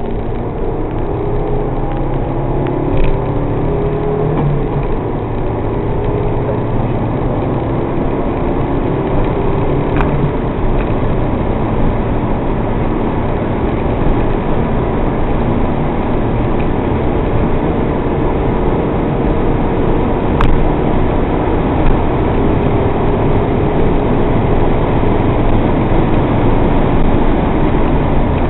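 MG TF's engine running hard at speed, heard from inside the cabin mixed with heavy wind and road noise; the engine's pitch shifts during the first few seconds, then the noise stays steady and loud.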